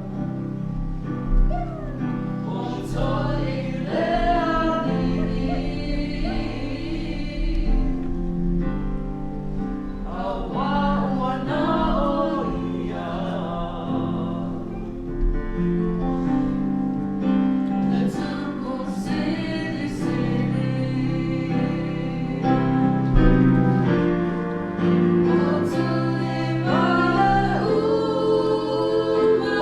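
A small group of voices, young women and a young man, singing a slow song together in harmony, holding long notes over sustained low chords.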